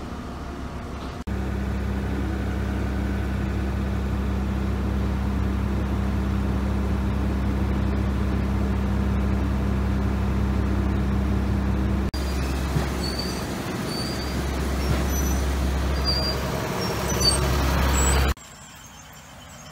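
A motor vehicle's engine running steadily with a low rumble, broken by abrupt cuts, with faint high chirps over it in the later part.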